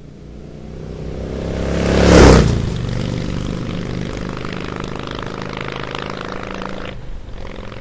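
Motorcycle engine growing louder and passing close about two seconds in, where it is loudest, then running steadily before fading away near the end.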